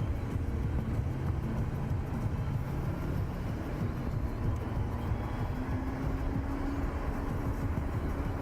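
A car driving on a highway: steady low engine and road rumble, with an engine hum that rises slightly in pitch past the middle.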